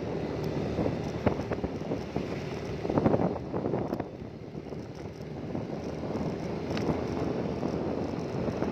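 An engine running steadily with wind buffeting the microphone, and a few sharp knocks about a second in, at three seconds and near seven seconds.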